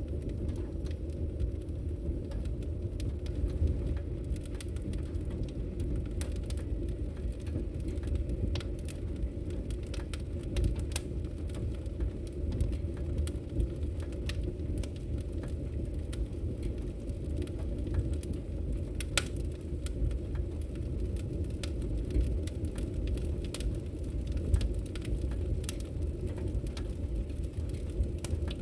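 Wood fire in a fireplace burning with a steady low rumble and irregular sharp crackles and pops, one louder pop about two-thirds of the way through.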